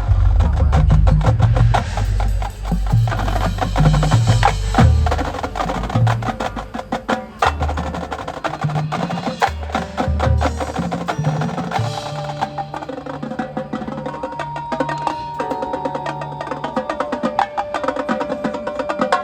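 Marching band music led by percussion: dense, rapid drum and wood-block strokes over heavy low bass notes, giving way about twelve seconds in to steadier held tones under continued percussion.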